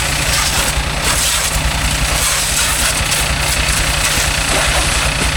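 Mahindra tractor diesel engine idling steadily, left running after a wash.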